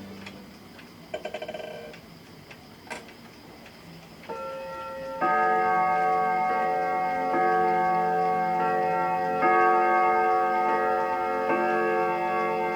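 Franz Hermle German two-train wall clock striking the time with three hammers on three rod gongs, a two-tone ding-dong strike whose tones ring on and are renewed by fresh blows every second or so, over the clock's ticking. A quick run of small clicks comes about a second in, and the strike begins about four seconds in.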